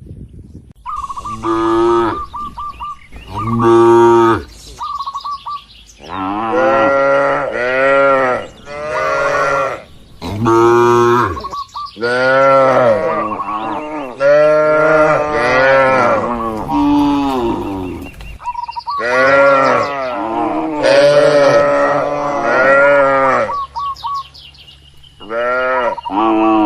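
Cattle mooing over and over, long loud calls following one another with short breaks, several of them overlapping.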